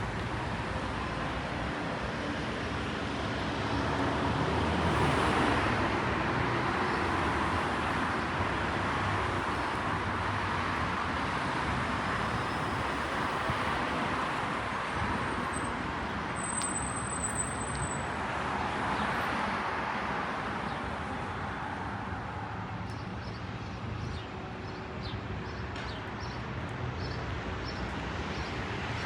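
City street traffic: cars passing in a steady stream, rising and fading as each one goes by.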